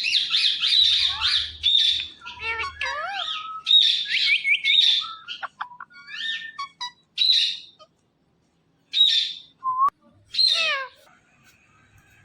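Indian ringneck parrots chirping and squawking in quick runs of shrill calls, many with falling notes. A short pause comes about two-thirds through, and the calls die away near the end.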